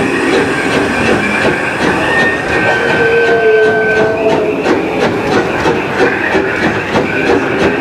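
Narrow-gauge steam locomotive rolling along with steady running noise and wheels clicking over rail joints, with a brief steady squeal from about two to four seconds in.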